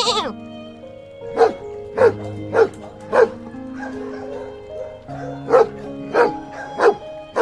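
A dog barking over background music: two runs of four short barks, evenly spaced, with a pause of about two seconds between the runs.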